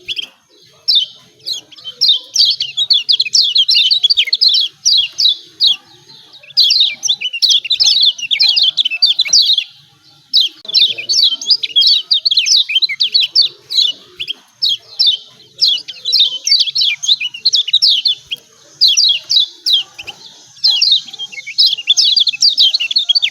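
Kecial kuning (Lombok yellow white-eye) giving its excited 'ciak ciak' chatter: rapid runs of short, high, downward-sweeping chirps in bursts of a couple of seconds with brief pauses between. This is the lure call used to provoke silent white-eyes into singing.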